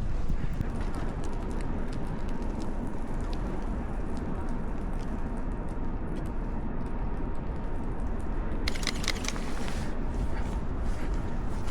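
Blizzard wind buffeting the microphone in a steady low rumble, with scattered small crunches of footsteps in snow and a short burst of scraping noise about nine seconds in.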